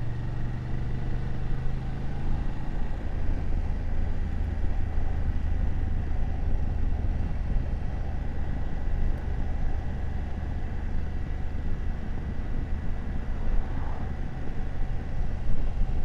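BMW F750GS parallel-twin engine running under way, with wind and road noise. The engine note drops a little about three seconds in.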